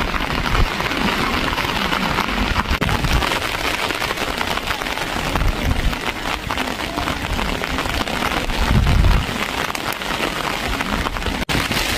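Steady rain falling and pattering on surfaces, with a few low rumbles, the strongest about nine seconds in.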